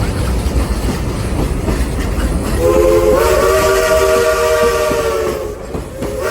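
Steam locomotive's chime whistle sounding one long blast, a chord of several notes, starting about two and a half seconds in and stopping after about three seconds. Under it, the train's steady running rumble and wheels on the rails.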